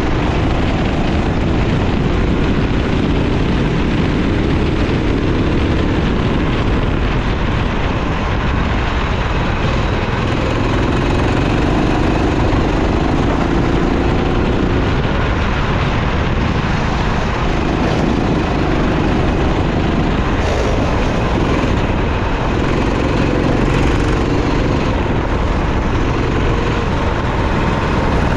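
Go-kart engine running hard, its pitch rising and falling in several long sweeps as the kart accelerates and slows through the corners, over a steady rushing noise.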